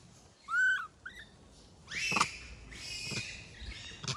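Animal calls: short, high, arched chirps, then a louder, harsher cry about two seconds in, and more calls after it.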